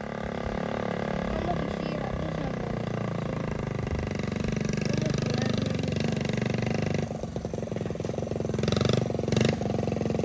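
Small motorcycle engine running, with fast regular firing pulses that are clearest in the second half.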